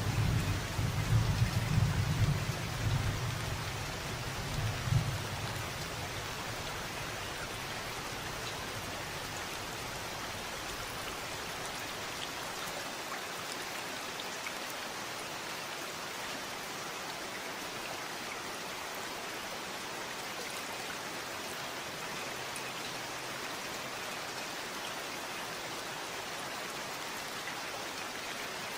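Steady rain falling. A low rumble of thunder runs through the first five seconds or so and fades out, leaving only the even hiss of the rain.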